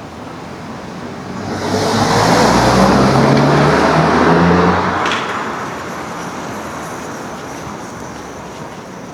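A motor vehicle passing close by on the street: its engine and tyre noise swells, is loudest for a few seconds, then fades away.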